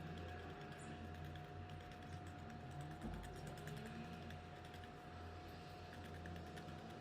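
Faint, quick light tapping over a steady low hum and a thin steady tone.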